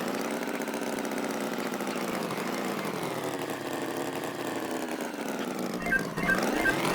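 Engine running with a slowly wavering pitch that dips and then climbs again, typical of a tractor engine sound effect. Music with a regular beat comes in near the end.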